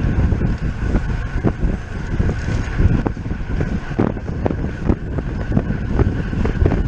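Wind buffeting the microphone as a road bike is ridden at speed. Under it run a steady high whir and short ticks about twice a second.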